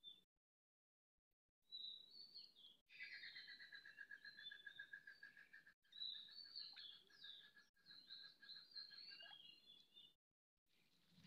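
Faint birdsong: many short high chirps over a steady, rapidly pulsing trill. The sound cuts out abruptly several times, most clearly for about the first second and a half and again near the end.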